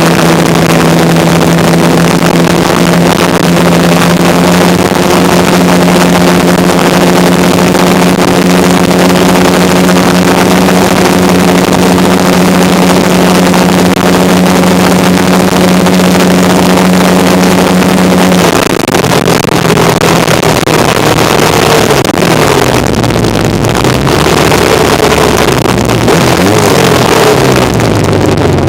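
1975 Kawasaki KZ400 parallel-twin engine running at a steady pitch while riding, with loud wind rushing over the microphone. About eighteen seconds in the engine note drops, then rises and falls as the speed changes.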